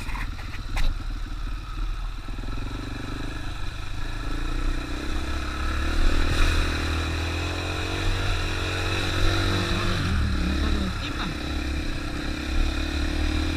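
450 cc dual-sport dirt bike engine running while riding, its pitch rising and falling with the throttle.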